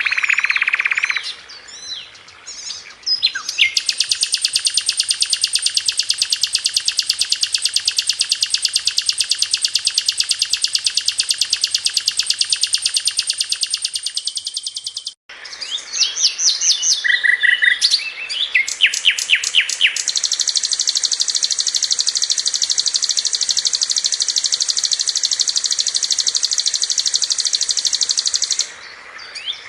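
Sikatan londo, a flycatcher, singing. Its song is made of long, very rapid, high-pitched trills lasting about ten seconds each, with a cluster of sharp chirps between the two trills.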